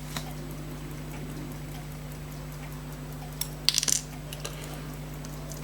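Small metal tools clicking faintly and irregularly against tiny pocket watch parts, with a short clatter of sharper clicks just before four seconds in, over a steady low hum.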